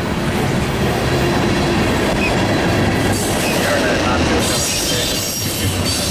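Freight train cars rolling past at close range: tank cars, covered hoppers and boxcars of a long manifest freight, with a steady rumble and clatter of steel wheels on the rails.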